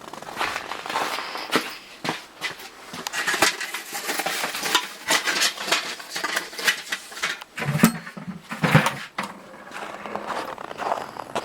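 Footsteps crunching through deep fresh snow, one crunch after another, with two heavier thuds about eight and nine seconds in.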